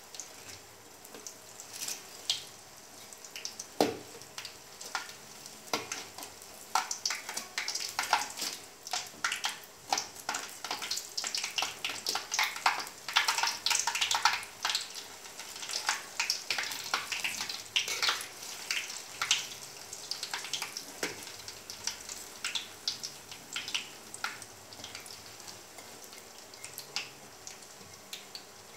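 Banana spring rolls (turon) deep-frying in hot oil: a steady sizzle with frequent sharp crackles and pops, busiest in the middle and thinning near the end, while a slotted metal spatula turns the rolls in the metal pan.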